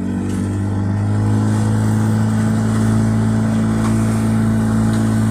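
A boat's motor being throttled up, then running steadily at speed as a loud, even drone.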